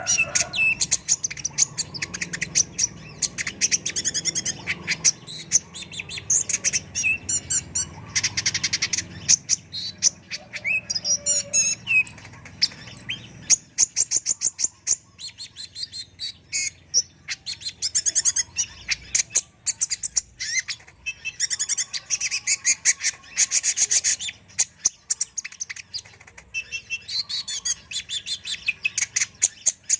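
Kolibri ninja sunbird singing: a rapid, high-pitched twittering song of fast trills and chattering chirps, delivered in bursts with short lulls between them.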